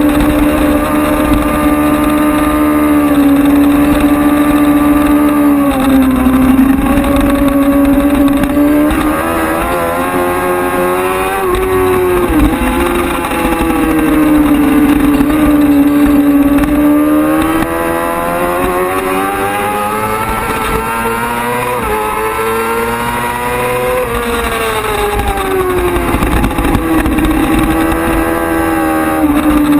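Racing sport motorcycle engine at full race pace, its pitch climbing and dropping back again and again as it accelerates, shifts and slows, over a low rush of wind.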